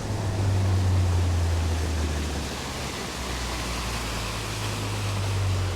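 Boat motor running steadily under way, a low drone that drops a little in pitch partway through, under a steady rushing noise of wind and water.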